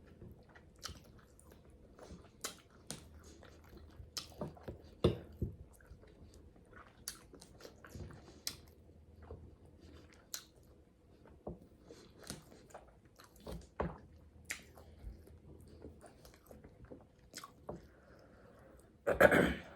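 Close-miked chewing and eating: irregular wet smacks and clicks of a mouth working on food, with one louder bite or mouth noise near the end.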